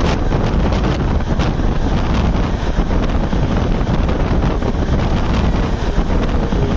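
Wind buffeting the microphone over the steady rumble of a passenger train running at speed, with irregular clicks of the wheels passing over rail joints and points.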